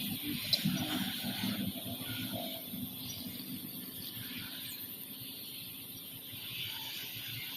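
A motor vehicle's engine hum fading away over the first couple of seconds, leaving a steady outdoor hiss.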